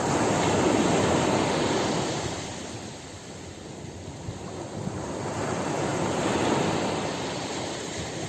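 Ocean surf: waves washing in, the sound swelling to a peak about a second in, ebbing, then swelling again around six and a half seconds in.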